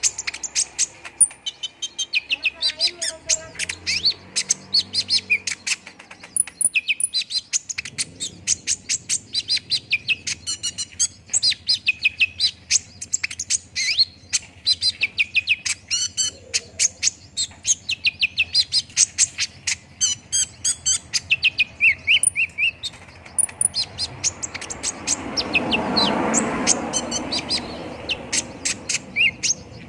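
Olive-backed sunbird (kolibri ninja) singing a long, rapid string of sharp, high chirps and trills, the kind of lure song used to set captive birds singing. About five seconds before the end a rushing noise swells and fades beneath the song.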